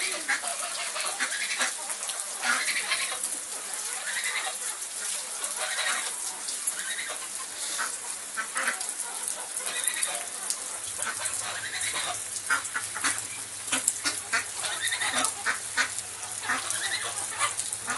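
Domestic ducks quacking on and off over steady rain pattering.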